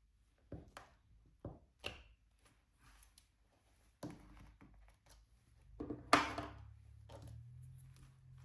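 Scattered light taps and clicks of diamond painting work: tools and resin drills handled on the canvas and drill tray, with a louder knock about six seconds in. A low steady hum starts near the end.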